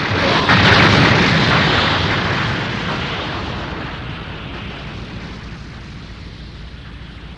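Explosion sound effect: a loud blast about half a second in, followed by a long rumble that slowly dies away, as a spaceship is destroyed in an animated space battle.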